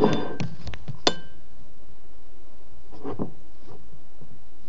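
Handling of a frog's container at the start of a water change: a brief rustle and a few sharp clicks, then a ringing clink about a second in and a couple of faint knocks later.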